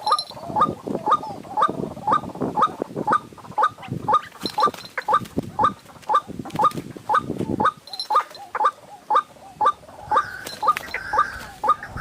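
White-breasted waterhen calling, a monotonous series of short, sharp notes repeated about two times a second. A second, higher call joins near the end.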